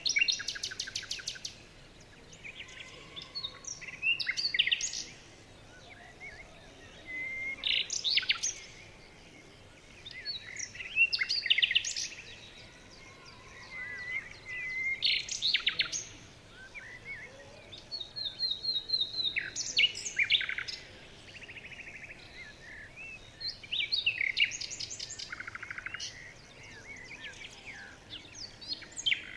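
Songbirds singing in a forest: short, rapid trilled and chirping song phrases repeat every three to four seconds, with brief quiet gaps between them.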